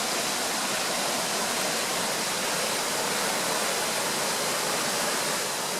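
Steady rush of falling water from a mountain waterfall and stream, an even hiss spread high and low with no breaks.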